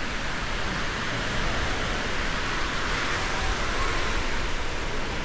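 Steady rushing noise of Gulf surf and wind on the beach, swelling slightly in the middle, with a low wind rumble underneath.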